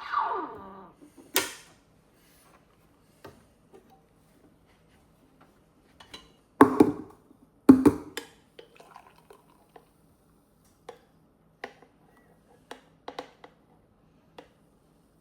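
Clatter of hard kitchenware being handled: a sharp knock, then two loud knocks about a second apart midway, followed by a scatter of light clicks and taps.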